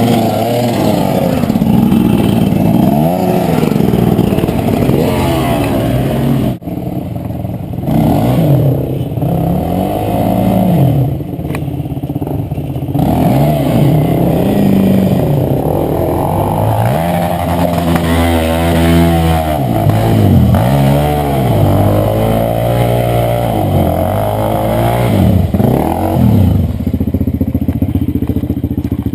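Enduro motorcycle engine revving hard over and over, its pitch rising and falling every second or two as the rider works the throttle.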